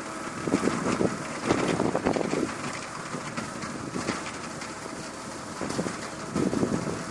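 Tractor engine running steadily, with a few louder gusts of wind noise on the microphone.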